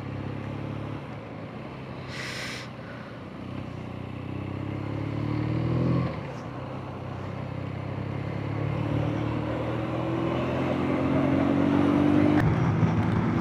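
Motorcycle engine under acceleration: its pitch climbs for a few seconds, drops at a gear change about six seconds in, then climbs slowly again through the rest.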